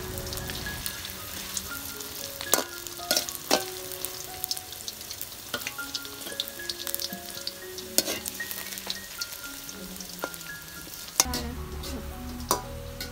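Food frying in hot oil, sizzling steadily, with a few sharp clacks of a utensil against the pan as it is stirred. Soft background music with plucked melodic notes plays along, gaining a low bass near the end.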